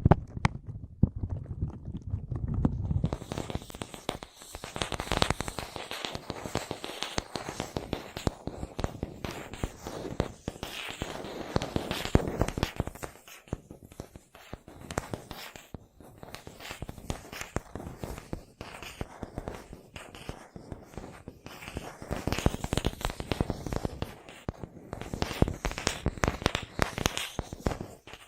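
Close-up ASMR tapping on objects: quick, irregular taps in fast flurries, with a low rumble under them for the first few seconds.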